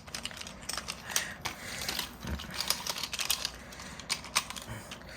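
Irregular small plastic clicks and taps as Beyblade tops and launchers are handled and fitted together, ready to launch.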